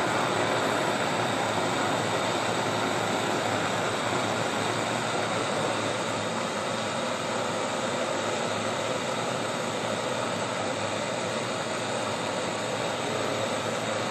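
Small thermal lag Stirling engine running, a steady mechanical noise that holds even throughout.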